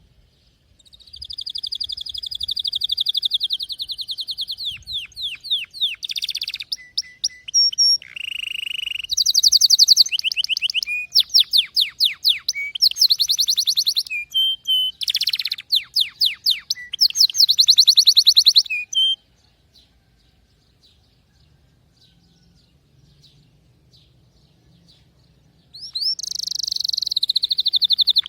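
Domestic canary singing: long trills of fast, evenly repeated high notes, each roll holding one pitch for a second or two before switching to another. The song breaks off about 19 seconds in and starts again near the end.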